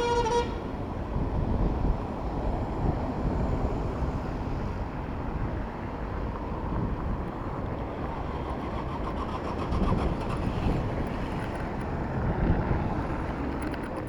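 City street traffic noise with wind rumbling on the microphone of a moving bicycle. A vehicle horn cuts off about half a second in.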